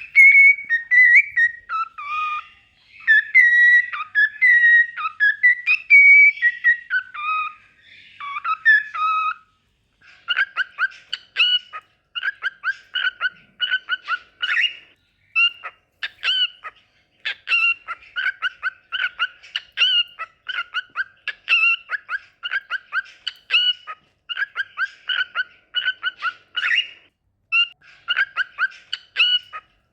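Cockatiel singing: a warbling whistled song that glides up and down, then from about ten seconds in a fast run of short repeated chirps, several a second.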